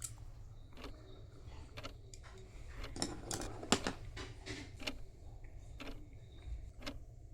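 A run of light clicks and knocks from small objects being handled, with one sharper click about three and a half seconds in, over a steady low hum.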